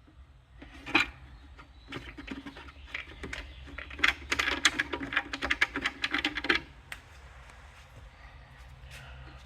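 Rapid clatter of small clicks and rattles, densest from about four to six and a half seconds in, over a low steady hum.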